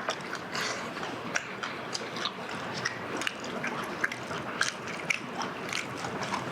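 Close-up eating sounds: chewing of charcoal-grilled chicken, with many small mouth clicks through the chewing.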